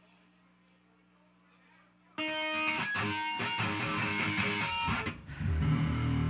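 A faint steady low hum, then about two seconds in an electric guitar through its amplifier suddenly strikes a chord and lets ringing notes sound. Heavier low notes come in near the end.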